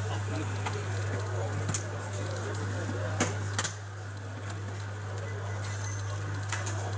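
Exhibition hall ambience: a murmur of background voices with scattered light clicks and clinks, over a steady low hum.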